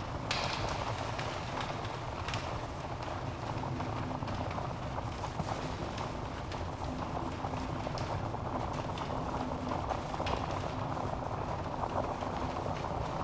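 Wood fire burning in a fireplace: a steady rushing hiss of flames with irregular sharp crackles and pops from the logs.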